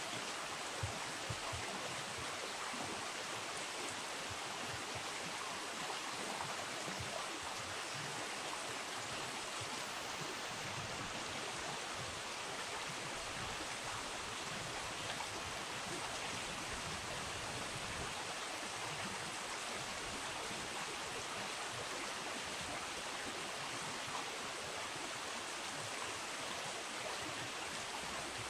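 River water flowing steadily, a continuous rushing with no breaks.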